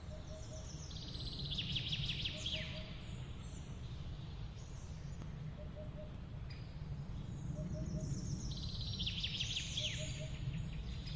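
A small songbird singing two bursts of rapid, high chirping trills, about a second in and again about eight seconds in, over a steady low rumble.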